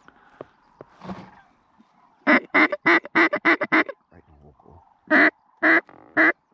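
Hunter's duck call blown in a hen-mallard cadence: a quick descending run of about seven loud quacks, then slower single quacks, calling to ducks coming in.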